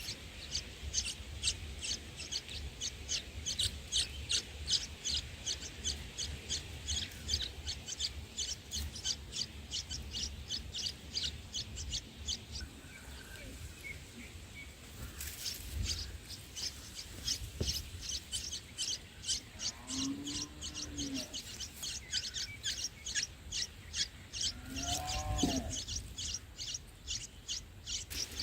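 A bird giving a fast, even series of short high chirps, about four or five a second, that breaks off for a few seconds midway and then starts again.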